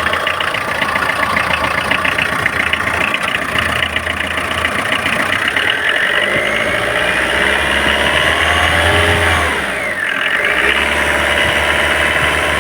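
Tata Indica V2's engine running under the open bonnet with its repaired alternator charging. Its pitch climbs over a few seconds past the middle, drops sharply just before ten seconds in, then settles back to a steady idle.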